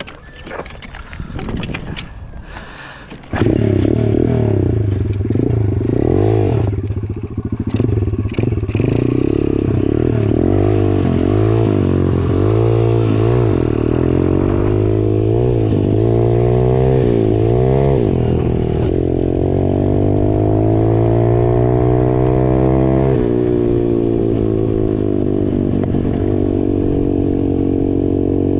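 150cc petrol dirt bike engine revving hard under full throttle, its pitch swinging up and down repeatedly and then holding high and steady, with a step down about 23 s in. It follows about three seconds of rattling and scraping as the bike rolls over rough ground.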